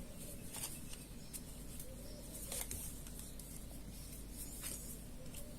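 Quiet room tone with a low steady hum and a few faint, sharp clicks and light taps.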